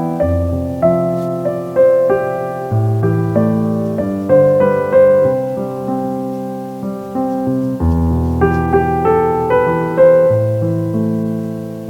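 Slow, gentle solo piano background music, single notes and soft chords over low sustained bass notes.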